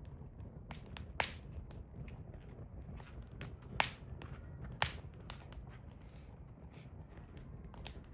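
Hardwood fire crackling: scattered small ticks with three sharp, louder pops at about one, four and five seconds in.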